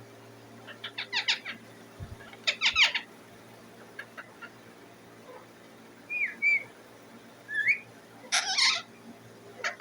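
Indian ringneck parrot calling: short bursts of rapid, sharp chirps, broken by a couple of whistled notes that swoop up and down, about six calls with pauses between them.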